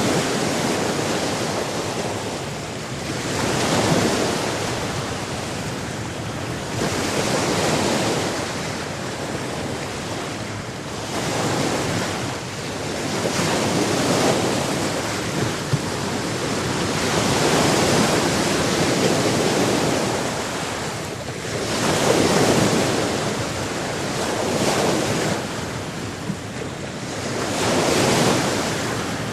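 Sea waves breaking on a shore, the wash swelling and falling away every few seconds.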